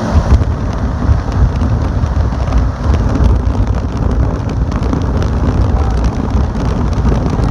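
Large homemade box fan with a restored 1997 Emerson electric motor running on high speed. The air blast makes a loud, steady rush, heaviest at the low end, with wind buffeting the microphone.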